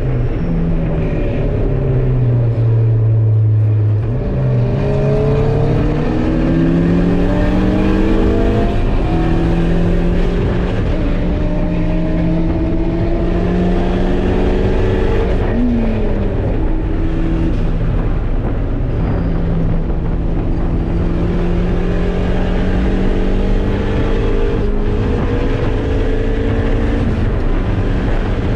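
Race-prepared sports car's engine heard from inside the caged cabin at track pace. The pitch climbs hard through the gears with drops at the upshifts and a quick rev blip on a downshift about sixteen seconds in, over steady road and wind noise.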